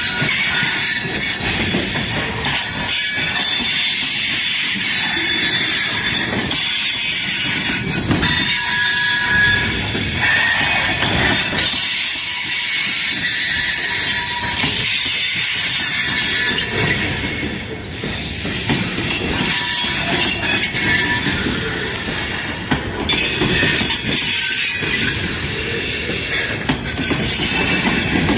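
Railroad freight cars rolling slowly over the track. Their wheel flanges squeal in several high tones that shift and overlap, over a low rumble and clacking of the wheels on the rails.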